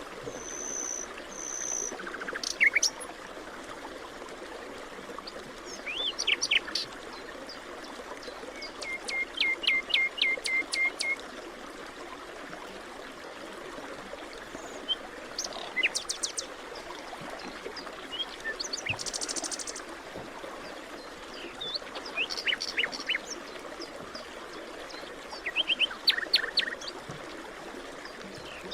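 Several songbirds calling and singing in short separate phrases: quick chirps, a rapid run of repeated notes, and a brief buzzy call, over a steady hiss of background forest ambience.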